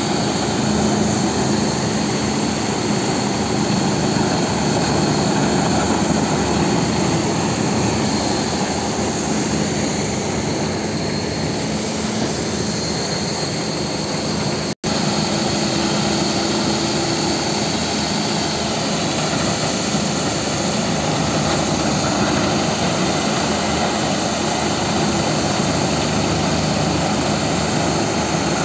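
Wood chipper shredding forest waste, its engine and cutting drum running steadily under load. The sound cuts out for an instant about halfway through.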